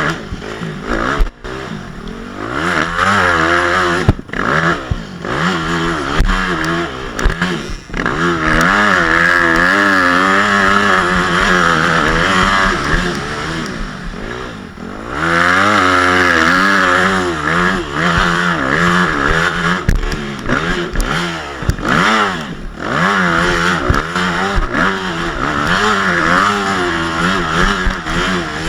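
Motocross bike engine revving hard and backing off again and again as it is ridden, held at high revs for several seconds at a time, with sharp knocks and clatter in between.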